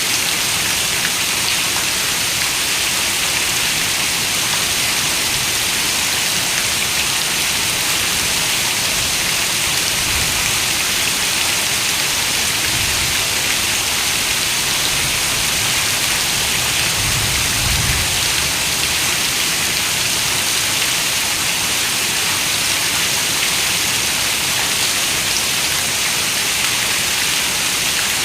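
Heavy rain falling steadily on a window: a dense, even hiss of raindrops. A brief low rumble comes about two-thirds of the way through.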